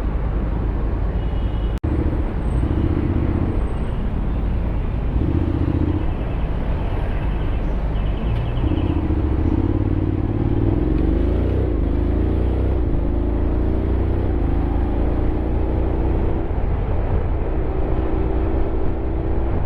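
Honda X-ADV 750's parallel-twin engine running under way, with wind rush over the microphone. Its pitch comes and goes at first, then climbs in a few stepped rises and holds steady as the bike accelerates.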